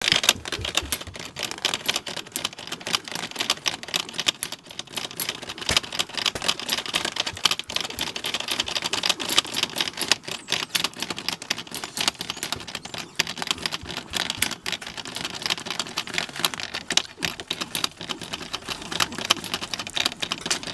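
An American Bully dog licking and smacking at frozen peanut butter: a rapid, irregular run of wet clicks and smacks without a break.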